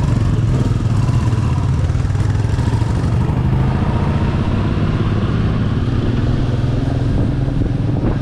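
Royal Enfield Classic 350's single-cylinder engine and exhaust running steadily at an even speed.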